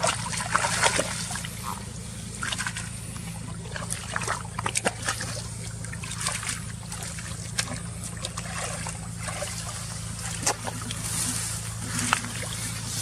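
Shallow water splashing and trickling in many short, irregular splashes, as when someone wades and gropes for fish by hand, over a steady low hum.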